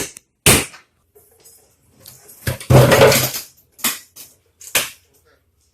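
Hard objects knocking and clattering: single sharp knocks spaced about a second apart, with a longer, louder clattering crash about three seconds in.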